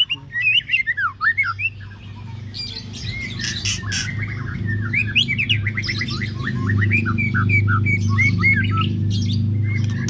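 White-rumped shama (murai batu) singing: varied whistled slides and quick runs of notes. Underneath is a low steady hum that grows louder from about four seconds in.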